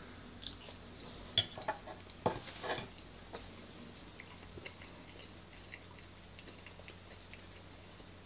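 A person chewing a mouthful of beef close to the microphone, with faint, irregular wet mouth clicks. In the first three seconds a few sharp clicks and knocks sound as a metal fork is set down on a wooden chopping board.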